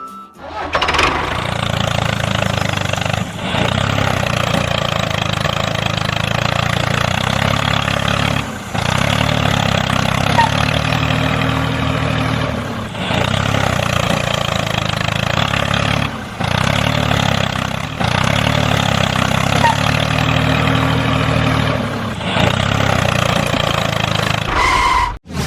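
A small motor running steadily, with short dips in level every few seconds.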